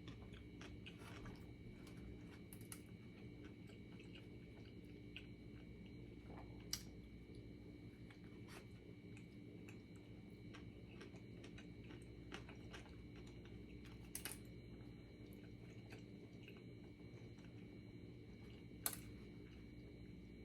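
Faint chewing and mouth sounds of a person eating, with scattered small clicks and a few sharper ones, over a steady low hum.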